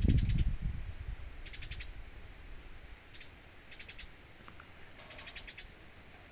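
Woodpecker pecking at a seed feeder in short bursts of rapid, light high taps, about five bursts with pauses between. A low rumble opens the first half second.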